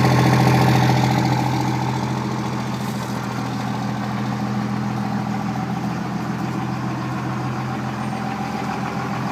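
An engine idling steadily. It eases off a little about a second in, then holds an even idle.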